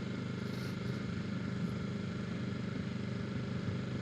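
2025 Kawasaki Ninja 650's parallel-twin engine running at steady revs while the bike is ridden, with no revving up or down.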